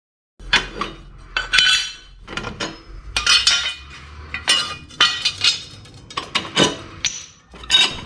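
Metal tools and parts clinking and clanking as they are handled: about a dozen separate knocks, several with a short metallic ring, starting about half a second in.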